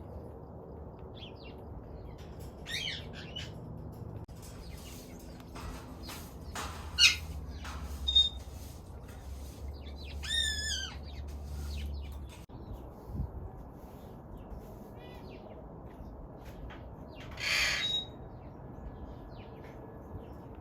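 Parrots calling: scattered chirps and whistles with a harsh squawk, the loudest calls about seven to eight seconds in, a wavering whistle about ten seconds in and a rough squawk near eighteen seconds.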